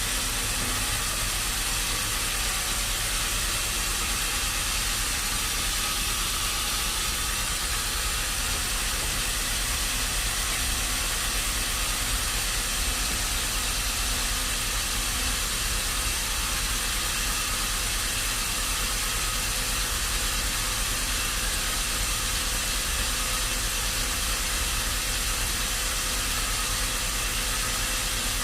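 Steady machine noise: an even hiss over a low rumble, with no change in level.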